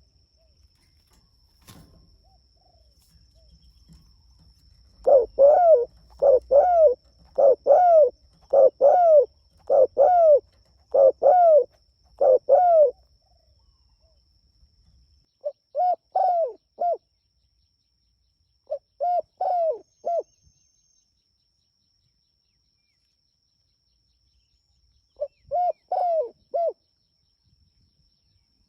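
Spotted dove cooing: a run of about eight quick coos, then three short three-note phrases separated by pauses of a few seconds.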